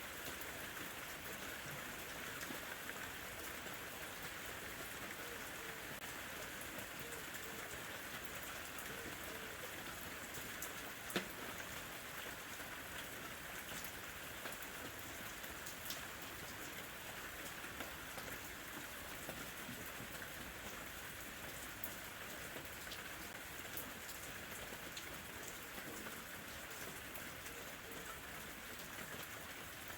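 Steady light rain falling, an even hiss with scattered drops pattering on a surface and one sharper drop tick about eleven seconds in.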